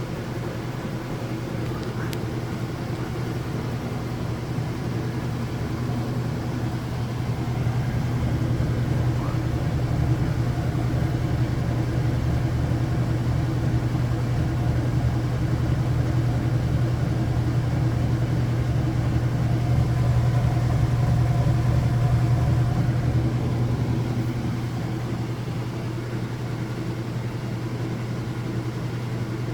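Whirlpool washing machine on high-speed spin: a steady low hum from the spinning drum and motor. It grows louder about a quarter of the way in and eases back off near the end.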